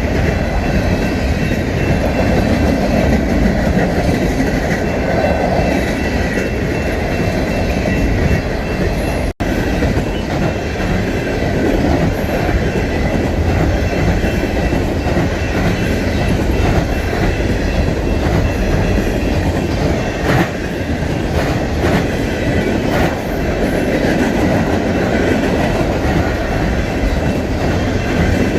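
Freight train cars rolling past at steady speed: a continuous heavy rumble of wheels on rail with clicks over the rail joints and a faint steady wheel squeal.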